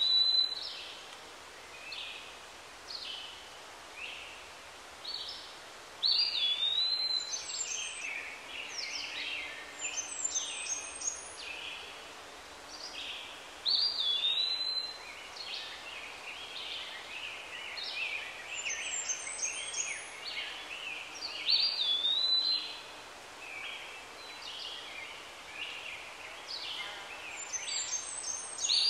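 Birds calling: a whistled note that dips and curls back up, recurring every seven or eight seconds among many short chirps and twitters.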